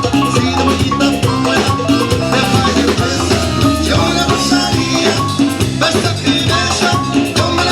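A Tejano band playing live, an instrumental stretch with keyboard, bass and drums on a steady dance beat.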